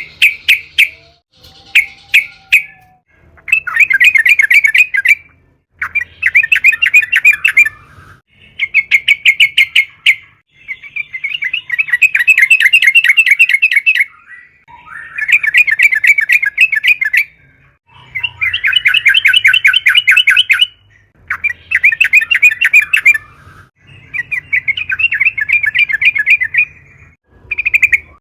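Yellow-vented bulbul (trucukan) calling at full pitch in a long series of rapid, bubbly chattering phrases. Each phrase lasts one to three seconds, with short pauses between them.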